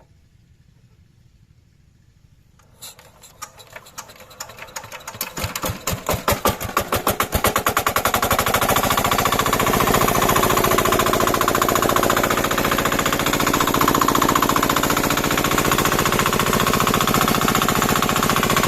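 Small diesel engine of a water pump starting: about three seconds in it fires with separate slow strokes that quicken over the next five seconds, then it runs at a steady fast beat.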